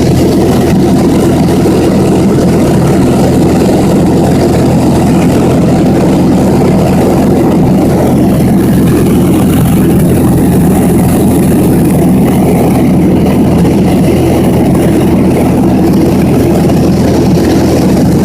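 Small airplane's piston engine and propeller droning steadily, heard from inside the cabin.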